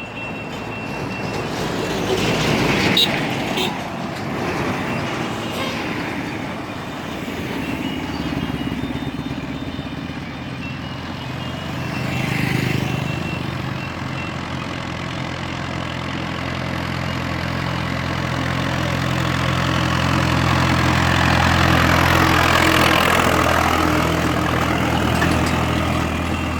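Hindustan tractor's diesel engine running under load as it hauls a fully loaded sugarcane trolley, a steady low engine note. The engine grows louder, loudest about three quarters of the way through, with brief swells of louder noise early on and near the middle.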